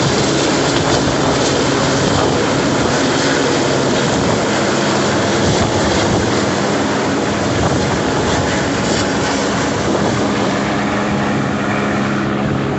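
Helicopter running close by: a loud, steady rush of rotor and turbine noise with a low hum underneath, easing slightly near the end.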